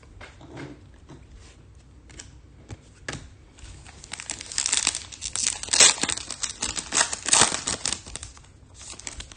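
Foil trading-card pack wrapper crinkling and tearing as it is handled and opened, with a few small clicks at first and then a longer stretch of dense crinkling over the last half.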